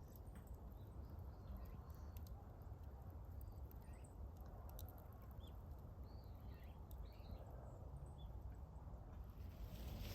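Faint outdoor ambience: a few small bird chirps, clustered in the middle, over a steady low rumble, with scattered faint clicks.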